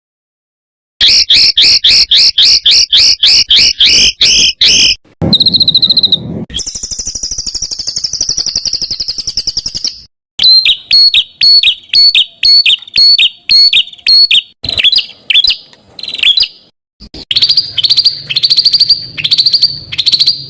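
Songbird singing loud, varied phrases: a rapid run of sharp repeated chirps about five a second, a high buzzy trill, then more spaced whistled notes. It starts after a moment of silence and breaks off briefly near the end.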